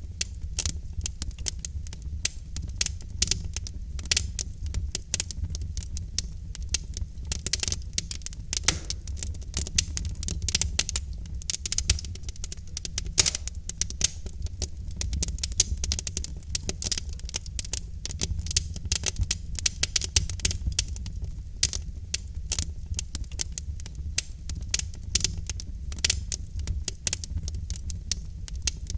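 Wood fire of burning logs in a fireplace, crackling with dense, irregular pops and snaps over a steady low rumble of flame.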